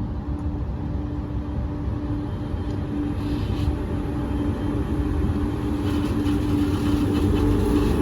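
Train at the station: a steady low rumble with a steady hum, slowly growing louder.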